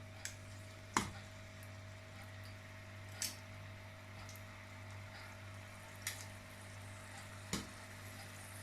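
Marinated chicken tikka pieces being laid one at a time into hot oil in a frying pan, each landing with a short, sharp sizzle or tap, about five in all, over a steady low hum.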